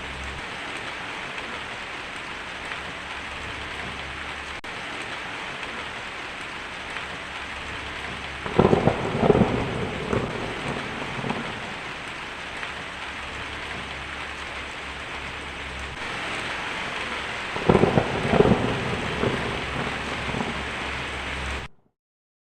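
Steady heavy rain with two rolls of thunder, one about a third of the way in and one near the end, each a cluster of loud rumbling peaks. The sound cuts off suddenly just before the end.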